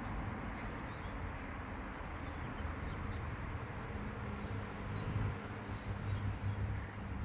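Outdoor background: a steady low rumble that grows a little stronger about halfway through, with a few faint, high bird chirps.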